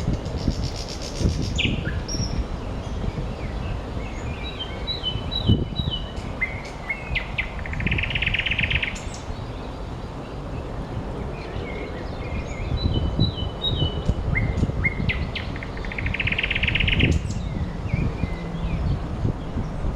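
A nightingale singing: twice, a run of short descending whistled notes leads into a loud, rapid trill. A steady low rumble of background noise runs underneath.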